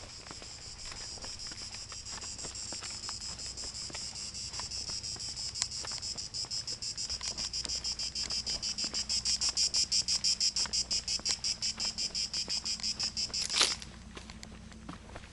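A cicada sings, a loud high-pitched rapid pulsing buzz that swells over several seconds, then cuts off suddenly near the end.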